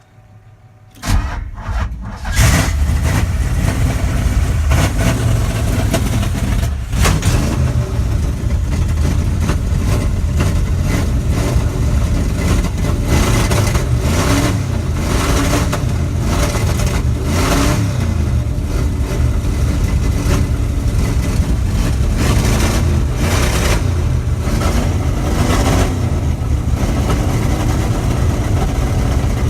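1978 Dodge pickup truck engine cold-started: the starter cranks briefly about a second in, the engine catches about two seconds in and then runs loud and steady, with a brief dip around seven seconds in and repeated surges in level.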